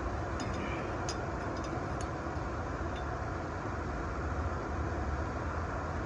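Steady low background rumble, with a few faint light clicks of small parts being handled.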